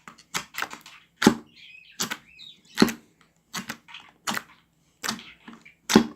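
Jelly slime being squished and pressed by hand, making a string of sharp, irregular clicking pops, roughly two or three a second.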